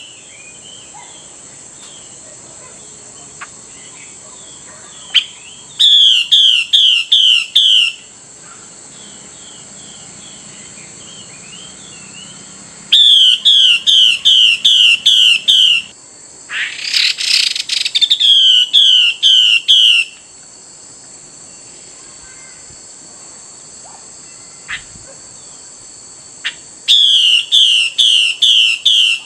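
Female Chinese hwamei (Garrulax canorus) calling in four loud bouts of quick, repeated downslurred whistled notes, with a short harsh, hissing burst about two-thirds of the way through. This is the female's call that provokes males to sing.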